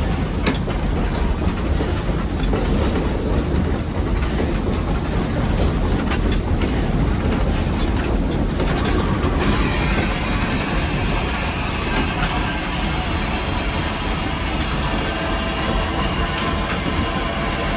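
Nevada Northern No. 81, a Baldwin 2-8-0 steam locomotive, heard from the cab working upgrade: a steady rumble with clattering and clicking from the running gear and rails. About halfway through, a steady hiss comes in and continues.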